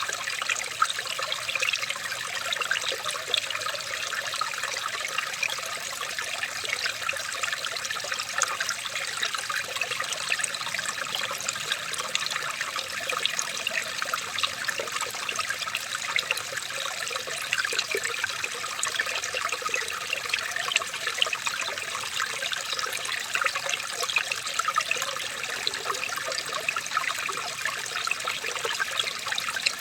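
Running water trickling and splashing steadily, with a dense patter of small splashes and no change in flow.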